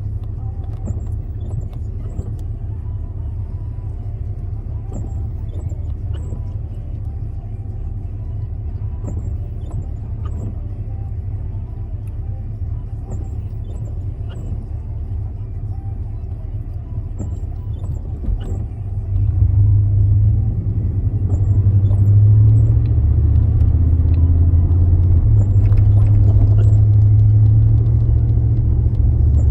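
Car cabin rumble from the engine and tyres while driving. It grows louder about two-thirds of the way through, with a faint rising engine note as the car picks up speed.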